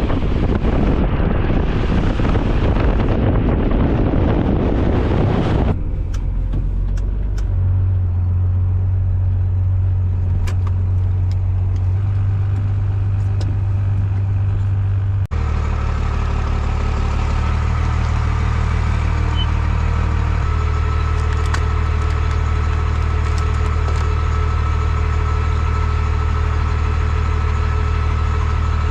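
A loud, even rushing hiss for the first six seconds or so, then a gas pressure washer's engine running steadily at constant speed as a low, unchanging hum, with a brief break about halfway through.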